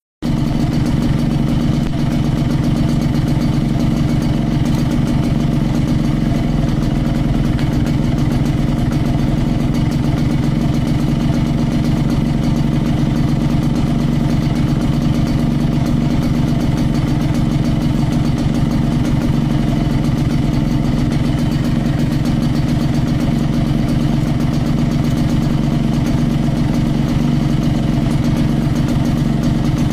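Yamaha RX-King 135cc two-stroke single-cylinder motorcycle engine idling steadily through its exhaust, with a deep, booming 'njeblug' exhaust note.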